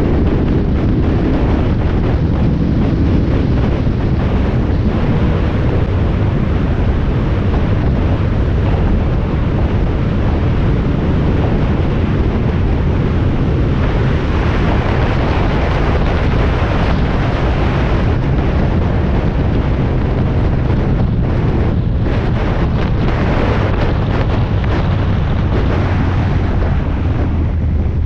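Spec Miata race car on track, its four-cylinder engine running under wind buffeting the in-car camera microphone, a steady loud noise with no clear pitch changes.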